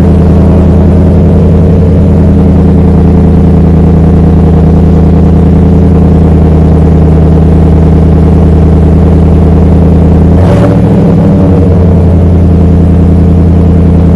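A 2021 Chevy Silverado's 6.2-liter V8 idles steadily just after start-up, breathing through a Flowmaster Super 40 muffler with the rear resonators removed and 4-inch quad tips. About ten and a half seconds in, the idle briefly wavers, then settles back.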